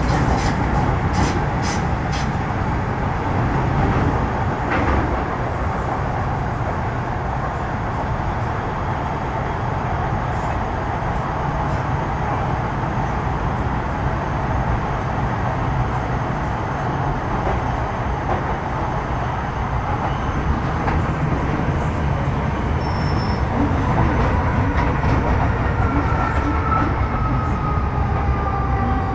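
Interior running noise of an MTR Metro Cammell M-Train electric multiple unit with GEC GTO chopper traction: steady wheel and track rumble. Near the end, the chopper's whining tones come in and fall in pitch.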